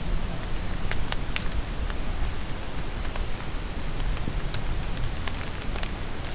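Steady rain falling in a forest, with close drops ticking and pattering on leaves. A few short, very high bird chirps come about halfway through.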